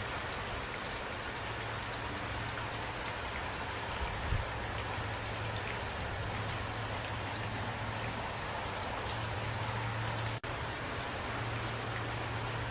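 Steady rain falling, with separate drops heard as small ticks over an even hiss. There is a brief dropout in the sound about ten seconds in.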